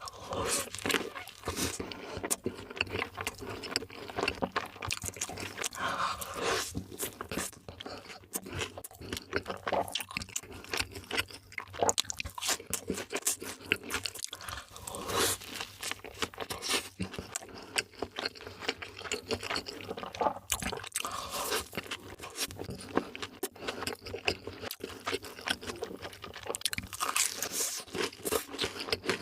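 Close-miked eating sounds: crunching bites and wet chewing, a dense run of irregular crackles.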